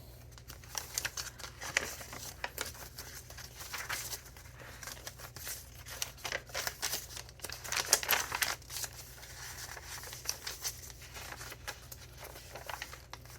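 Paper pages and paper ephemera of a handmade junk journal rustling and crinkling as they are handled and turned, in irregular crackles that get busier for a couple of seconds a little past the middle.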